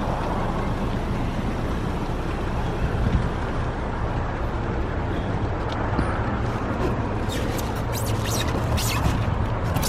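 A car running: a steady low engine and road hum. A few light clicks or taps come near the end.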